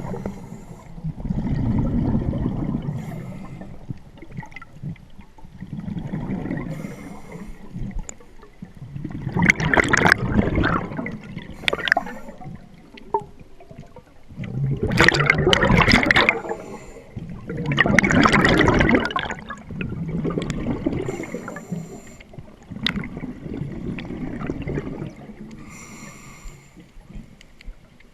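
Scuba diver breathing through a regulator underwater, the exhaled bubbles rushing and gurgling in surges every three to five seconds.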